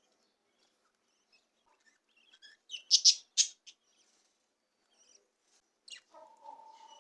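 Budgerigars chirping: a quick run of four or five sharp, high chirps about three seconds in, then a short downward-sliding call near the end followed by a lower call.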